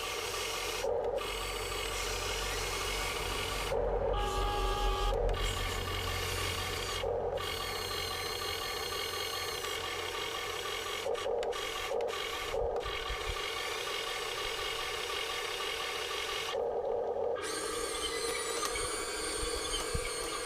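Huina 1580 all-metal RC excavator running: its small electric motors and servos whine, with a rasping grind from metal gears and tracks. It pauses briefly several times as the controls are let go and then picked up again.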